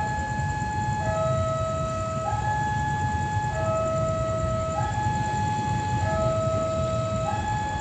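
Railway level-crossing electronic warning alarm sounding a two-tone high-low signal, each tone held a little over a second and the pair repeating about every two and a half seconds, with a low rumble underneath.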